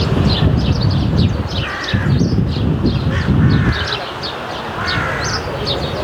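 A flock of sparrows chirping busily in a dense run of short, high chirps. Three harsher, lower calls from another bird come about 2, 3 and 5 seconds in, over a low rumble of wind or distant traffic.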